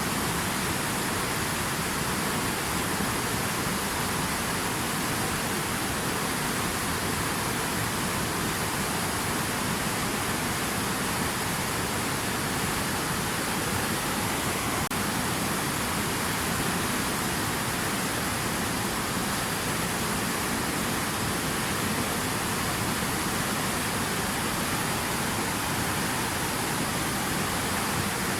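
Water rushing steadily, an even unbroken hiss with no separate splashes or drops.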